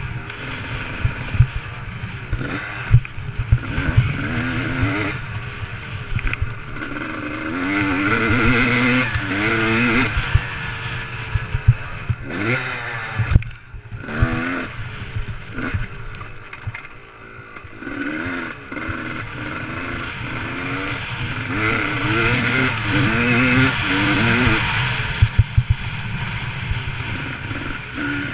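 Motocross motorcycle engine revving up and dropping back over and over, with sharp knocks and rattles throughout.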